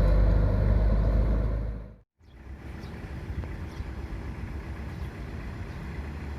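A heavy road vehicle's engine runs loud and low, then fades about two seconds in. It breaks off abruptly and is followed by quieter, steady road traffic noise.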